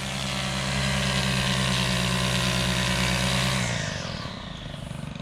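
Lawn mower engine running steadily with a wide hiss over its low hum, then fading away about four seconds in.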